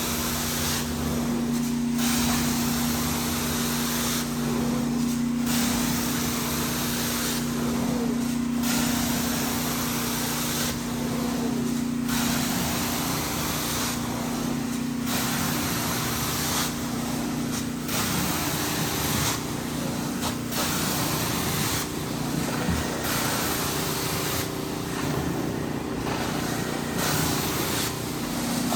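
Hot water carpet extraction wand spraying and sucking in repeated strokes: a loud hiss that dips briefly about every three seconds as each stroke ends, over the extraction machine's steady hum.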